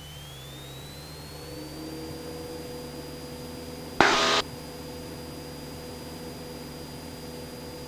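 Cessna 172SP's four-cylinder Lycoming engine and propeller heard from the cockpit, rising in pitch over the first two seconds as full power goes in for a go-around, then running steady at climb power. A brief loud burst of noise cuts in about four seconds in.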